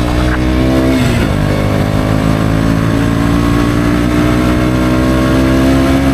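KTM Duke 125's single-cylinder four-stroke engine with an Akrapovic exhaust, accelerating under way. The revs drop sharply about a second in as it shifts up a gear, then climb steadily in the new gear.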